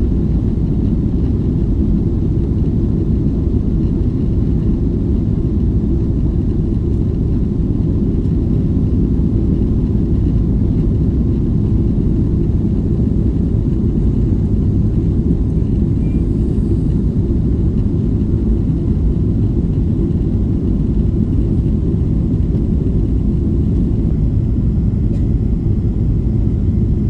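Steady low rumble of a Boeing 777-300ER's GE90 turbofans and airflow at high takeoff thrust, heard inside the passenger cabin.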